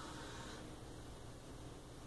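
Sewing machine stitching along a short seam stops about half a second in, leaving a faint low steady hum.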